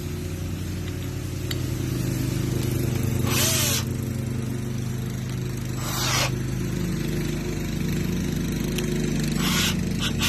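A neighbour's lawn mower engine running steadily, with two short hissing bursts of noise about three and a half and six seconds in.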